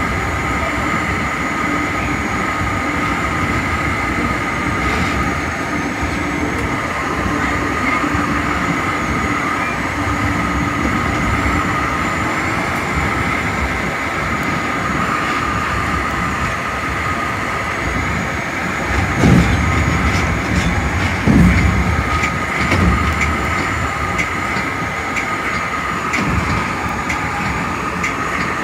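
Metra commuter train cab car rolling at speed: a steady rumble of wheels on rail with a constant high-pitched whine over it. A few heavy low thumps come about two-thirds of the way through.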